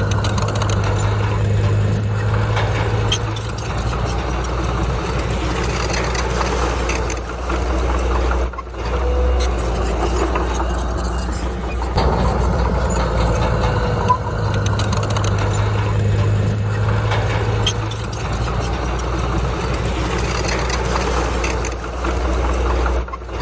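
Heavy diesel engine of earthmoving machinery running steadily under load, a loud, continuous low drone with some mechanical rattle.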